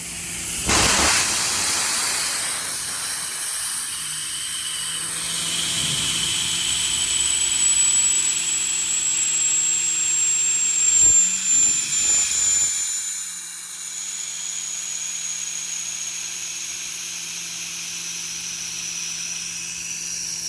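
Truck-mounted air compressor venting right after being switched off: a sudden blast of air under a second in, then a long whistling hiss that slowly falls in pitch as the pressure bleeds down. The truck's diesel engine idles steadily underneath, with a few knocks a little past the middle.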